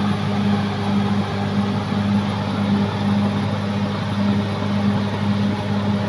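Diesel engine of a Caterpillar D6R XL bulldozer running steadily at a constant pitch.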